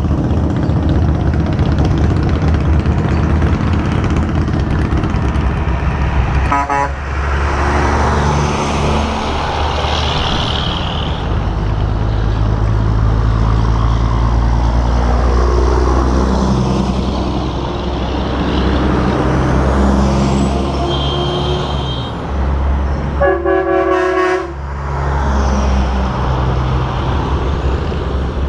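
Semi trucks driving past with diesel engines running, their pitch rising and falling as they go by. Air horns sound twice: a short blast about six and a half seconds in, and a longer one of about a second near the end.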